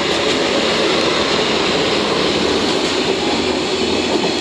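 Freight delivery train passing close: the DD51 diesel-hydraulic locomotive running by, then the Kuru 144 rail car it hauls rolling past. Loud, steady noise of wheels on rails.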